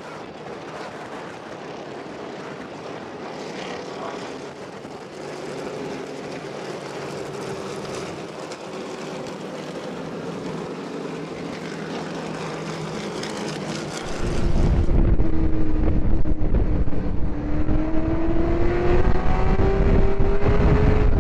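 Modified race cars' engines running at slow caution pace, a steady drone. About 14 seconds in it turns much louder, with a heavy low rumble and an engine note that wavers up and down.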